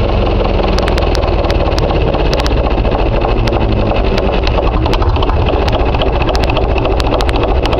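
Murphy diesel engine running steadily at a low idle, back in running order after fifteen years sitting unused, with sharp irregular clicks over the hum.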